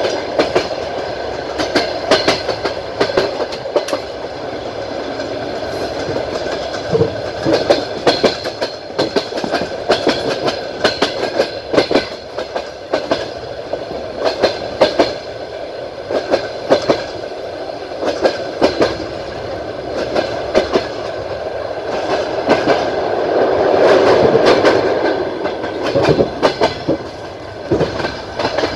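Passenger train wheels clattering over rail joints, heard aboard the moving train: an uneven run of sharp clicks over a steady rumble, which swells louder for a couple of seconds about three quarters of the way through.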